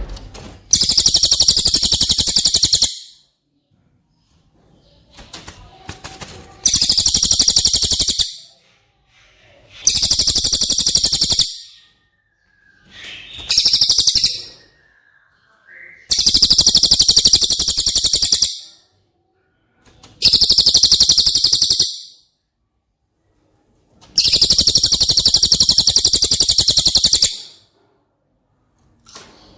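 Cililin songbird singing: a rapid, high-pitched trill delivered in seven bursts of about two to three seconds each, with short pauses between them. A fainter, lower falling whistle sounds in one of the gaps near the middle.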